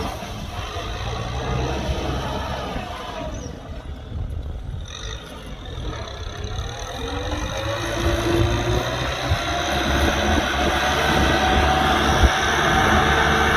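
Kubota M6040SU tractor's four-cylinder diesel engine running, easing off briefly and then revving up, rising in pitch and level through the second half. A single sharp knock sounds near the end.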